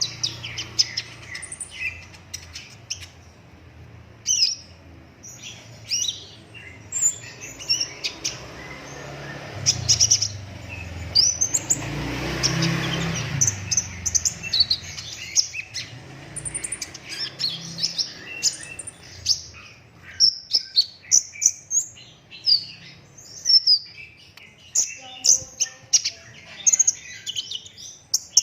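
Kolibri ninja sunbird singing hard: rapid, sharp high chirps and tight rolling trills, coming in quick runs that grow denser near the end. A broad rushing noise swells and fades in the middle.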